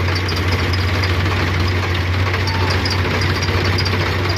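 A heavy vehicle's engine idling steadily with a constant low hum.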